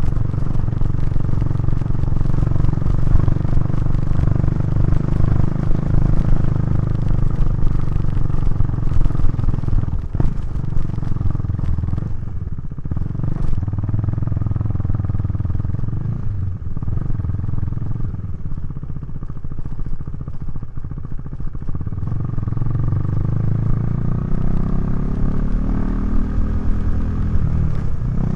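KTM 390 Duke's single-cylinder engine running through a Remus exhaust under way at a steady throttle. It eases off briefly twice about midway, then climbs steadily in pitch as the bike accelerates over the last few seconds, and drops back near the end.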